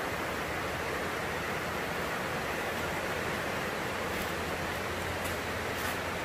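Heavy rain falling on a plastic greenhouse roof: a steady, even hiss.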